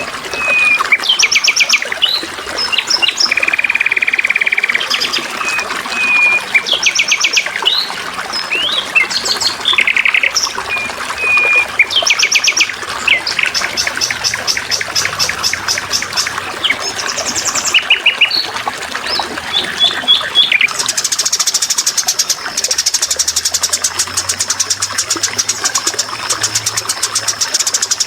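Songbirds singing over a steady trickle of running water: varied whistles, chirps and short trills for the first two thirds, then a fast, high, continuous trill to the end.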